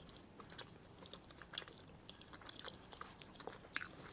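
Faint close-up chewing of chocolate layer cake with crunchy chocolate pieces inside: soft, irregular crunches and mouth clicks, a little stronger about a second and a half in and again near the end.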